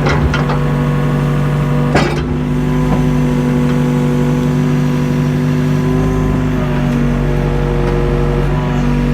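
Mini excavator engine running steadily at an even pitch while the machine works old foundation blocks. There is one sharp knock about two seconds in and a few lighter knocks around it.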